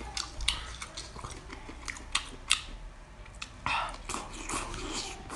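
Close-up eating sounds of someone biting and chewing crunchy seafood: a run of sharp cracks and crunches, the loudest about half a second in and twice just after two seconds in.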